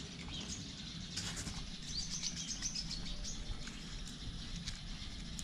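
Faint bird chirps over a quiet outdoor background, a few short high chirps between about one and three seconds in.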